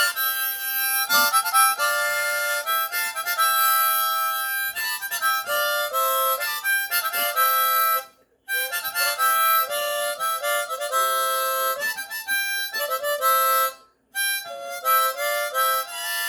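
Harmonica playing an instrumental passage of held notes and chords that change every fraction of a second. It breaks off briefly twice, about eight and fourteen seconds in.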